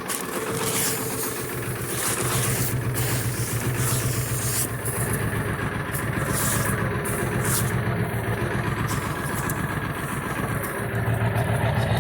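Ford 7.3-litre Power Stroke V8 turbodiesel idling steadily with a fast, even clatter, still cold just after a cold start.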